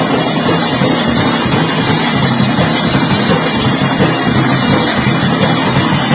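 Loud folk music with rapid, steady drumming.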